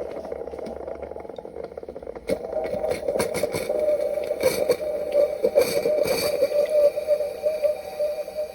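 Single-serve pod coffee maker running: a steady pump hum, joined about two seconds in by louder irregular crackling and sputtering as the water is forced through.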